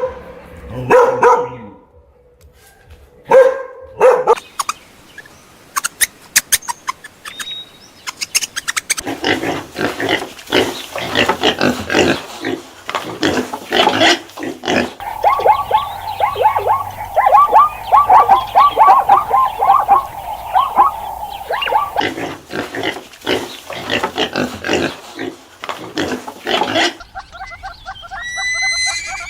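Pigs grunting and squealing, with a fast run of high, repeated squeals in the middle.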